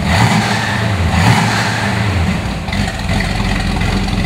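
1965 Ford Mustang GT's 289 cubic-inch V8 running through its dual exhaust, revved in a couple of quick blips and then settling to a steady idle near the end.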